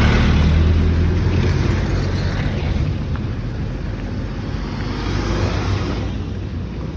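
A motor vehicle's engine and tyres rumbling as it passes close by, loudest at the start and slowly fading away, with wind buffeting the microphone.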